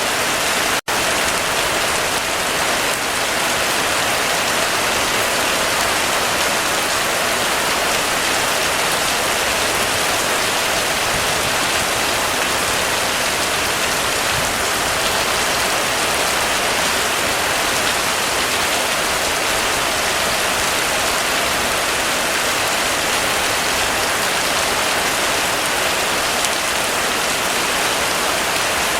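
Heavy rain falling steadily in a dense, even hiss, with a momentary cut to silence a little under a second in.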